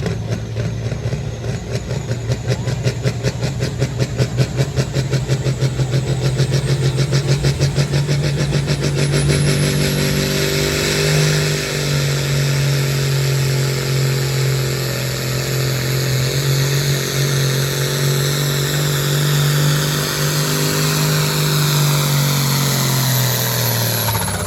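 Modified farm pulling tractor's diesel engine running hard under full load on the sled. The level pulses about three times a second for the first several seconds, then settles into a steady high-revving pull with a high whine climbing in. The engine pitch falls away near the end as the throttle comes off.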